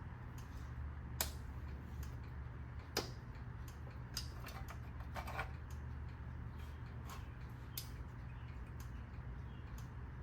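A 1973 Ford F100's engine running with a low steady hum, over which sharp irregular clicks come from the distributor, about one every second or two. It is a weird sound that the owner traces to something moving inside the distributor cap, and he suspects the rotor is hitting the newly fitted condenser.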